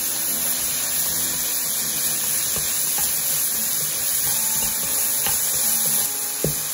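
Bacon, onion and mushrooms sizzling in a frying pan as they are stirred, with a sharp knock near the end.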